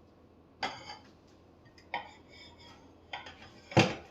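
Ceramic plates clinking as they are set down on a stack of plates: four separate clinks, the first ringing on briefly, and the loudest, heaviest knock near the end.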